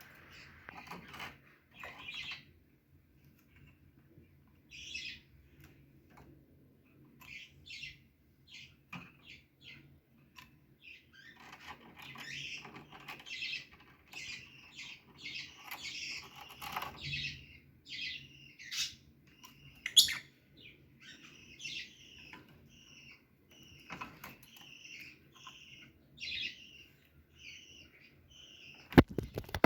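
Small pet parrots chirping and tweeting in a string of short, high calls, busier in the second half. A loud bang just before the end.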